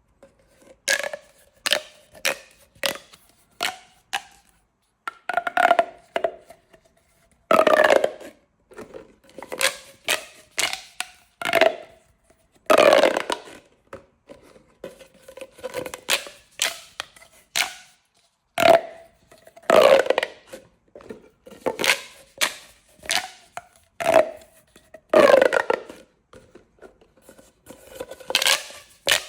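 Corrugated plastic pop tubes being stretched and squeezed over and over: crackling, ratcheting bursts with a hollow ring, about one a second, some drawn out longer.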